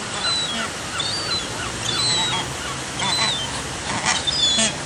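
A flock of water birds calling: many short calls, some rising and some falling in pitch, overlap over a steady hiss, with a few brief noisy sounds near the end.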